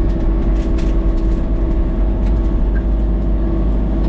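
An engine running steadily and loudly, a continuous drone with a held tone and a heavy low rumble.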